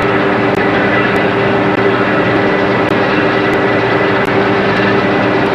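Offshore powerboat's engines running steadily at speed, a loud even drone with a steady engine tone over a rush of wind and water noise.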